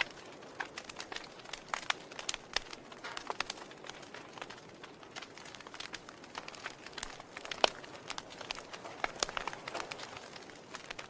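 Wood fire crackling in a fireplace: irregular sharp snaps and pops over a soft hiss of burning wood, with one louder snap about two-thirds of the way through.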